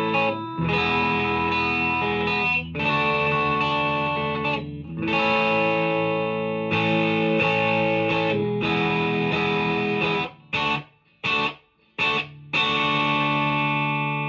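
PRS S2 Standard 24 electric guitar on both humbuckers in the middle pickup position, played through a Marshall amp's classic gain channel: overdriven chords, each ringing for about two seconds, then a few short choked stabs near the end before a last chord rings out.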